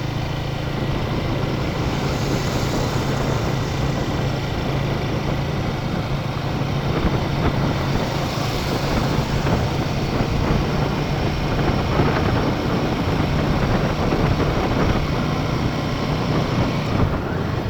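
Royal Enfield Himalayan 450 motorcycle running steadily at road speed, its engine a steady low hum under the rush of wind on the rider's microphone.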